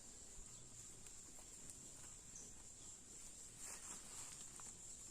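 Near silence with a faint, steady, high-pitched insect chirr, and a few faint ticks.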